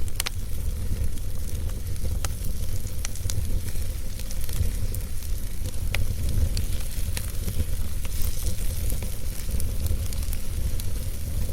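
Wood fire burning in a fireplace: a steady low rumble of flames with scattered sharp crackles and pops from the burning logs, one of the clearest about six seconds in.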